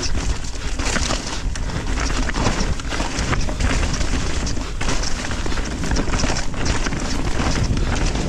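Mountain bike descending a rough, rocky downhill trail at speed: a steady rumble of tyres and wind noise on the microphone, broken by many sharp knocks and rattles as the bike hits rocks and roots.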